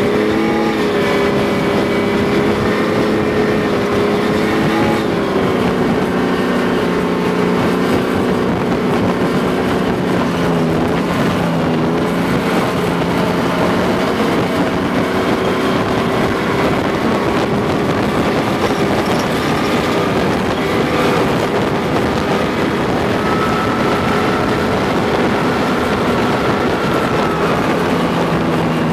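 Tracked armoured vehicle's engine running hard under a noisy haze, its pitch rising at the start and shifting several times as it speeds up and slows down.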